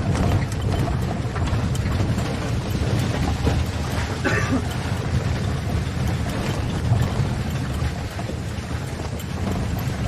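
Low, steady engine rumble of a safari vehicle, with wind buffeting the microphone. A short higher-pitched sound cuts in briefly about four seconds in.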